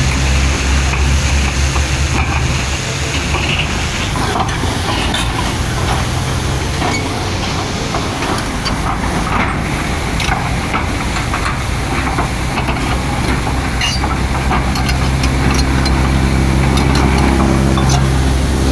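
Heavy diesel earthmoving machinery running, a steady low engine drone with scattered clanks and rattles. The engine is louder at the start, eases off a few seconds in, and comes up again near the end.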